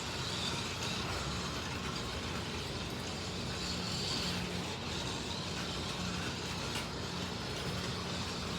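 Slot cars lapping a track, their small electric motors running with a steady whir and hiss that swells and fades slightly as the cars speed up and slow.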